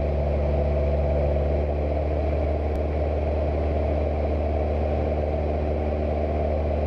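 Cessna 172 piston engine and propeller droning steadily, with no change in pitch or level.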